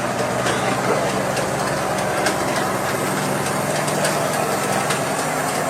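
Heavy dump truck engine running steadily at a low, even idle.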